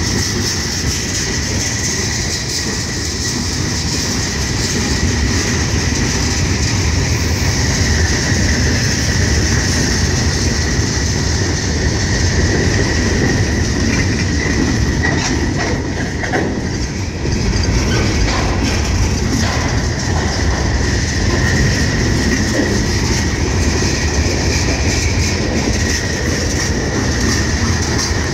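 Freight train boxcars and tank cars rolling past close by: steel wheels clatter over the rail joints with a steady rumble, and a thin high-pitched wheel squeal runs through it. A few louder clanks come about halfway through.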